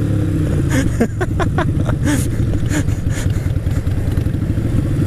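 Motorcycle engine running steadily at cruising speed, with loud exhaust pipes, heard from the rider's helmet microphone.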